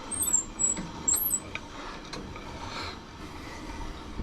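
Short, very high-pitched squeaks, about two a second, from the sawmill's winding mechanism being turned as it is tested after the loose shaft grub screw was refitted and oiled. The squeaks stop about a second and a half in, leaving a few light clicks.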